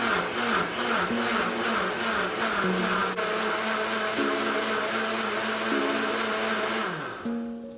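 A loud electric motor of a household appliance running with a steady rushing whir, then winding down and stopping about seven seconds in.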